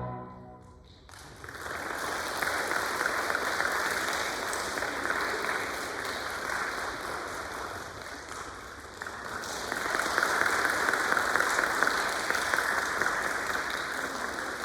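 The choir's final chord stops, and about a second later audience applause starts. The applause grows louder again about two-thirds of the way through.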